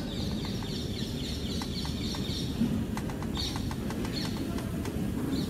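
Outdoor background of birds chirping in quick high twittering runs, over a steady low rumble.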